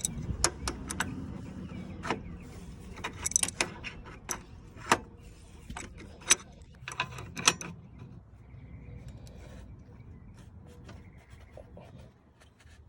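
Irregular sharp metallic clicks and clinks from hand tools working on a fitting while the transmission cooler line and its bracket are tightened onto a new radiator. They come thick for about eight seconds, then give way to fainter handling sounds.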